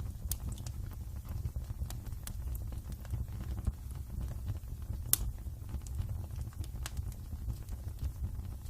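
Wood fire crackling in a fireplace: irregular sharp pops and snaps over a steady low rumble of burning, with one louder pop about five seconds in.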